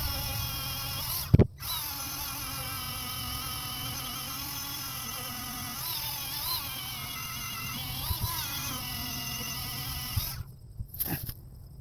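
Dremel rotary tool spinning a buffing wheel at high speed, a steady whine whose pitch sags several times as the wheel is pressed onto the axe steel. It cuts out with a knock about a second in, runs on again, and stops about ten seconds in.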